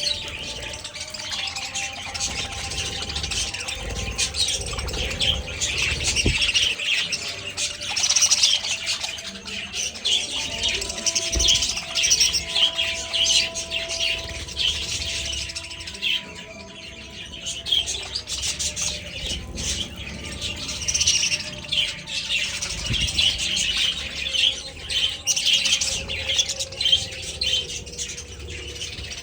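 A flock of budgerigars chirping and chattering, many birds calling over one another without pause, with a brief lull a little after halfway.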